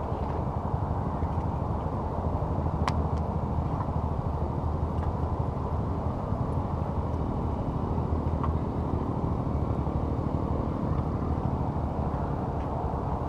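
Campfire burning with a few sharp pops, the clearest about three seconds in, over a steady low rumble.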